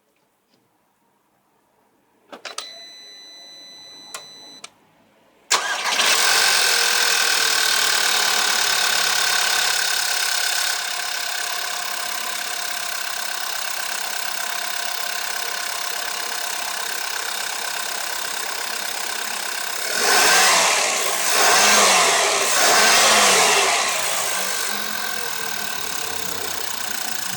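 VW 1.8 TSI (BZB) turbo petrol four-cylinder starting from cold about five seconds in, after a short whine when the ignition is switched on. It then runs at fast idle with a timing-chain rattle, the sign of a worn chain or chain tensioner. Around twenty seconds in it is revved briefly three times, then settles back to idle.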